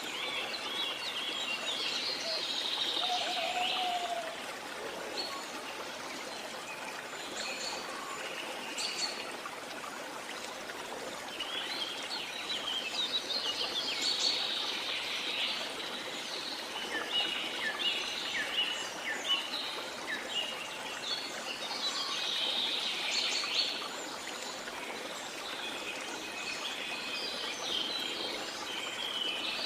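Rainforest ambience: many birds chirping and calling in overlapping bursts over a steady wash of falling or running water. Near the start, a few lower, curved calls stand out beneath the chirping.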